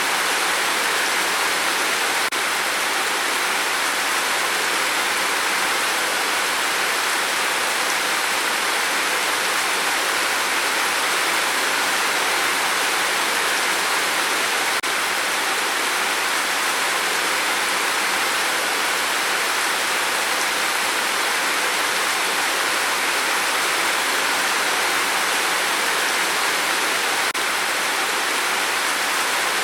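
Rain on a tin roof: a steady, even hiss of many drops that holds constant throughout.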